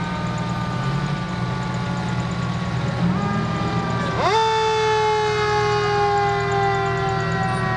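Fire truck siren winding down in pitch, then spun up again about four seconds in, rising sharply and falling away slowly, over the truck's engine running.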